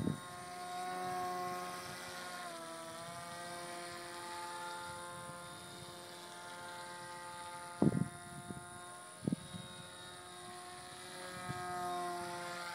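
Small RC aircraft's electric motor and propeller running with a steady whine. The pitch drops a couple of seconds in and rises again near the end, with a few brief sharp knocks near the middle.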